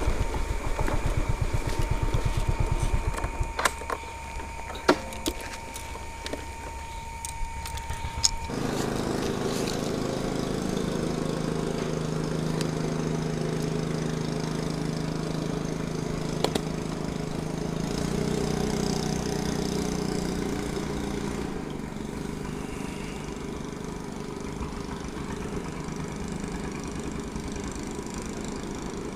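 Small engines running: a low throb that fades after about three seconds, a few sharp clicks, then from about eight seconds in a steady engine hum that swells a little past the middle and eases again.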